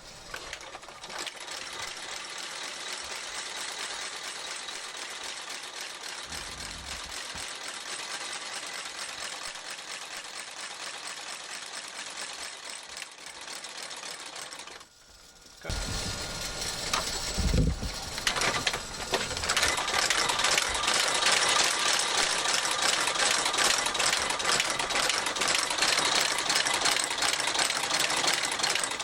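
Shoe repair stitching machine running: a steady mechanical hum that stops briefly about fifteen seconds in, then starts again louder with a fast, even stitching clatter.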